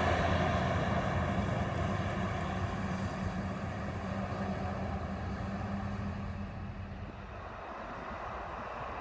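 A heavy truck driving away after passing by, its engine hum and tyre noise fading steadily over several seconds.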